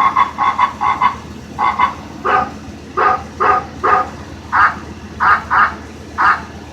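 Frog croaking sound effect, one of a sequence of animal sounds: a series of short croaks, fast at first and then more spaced out.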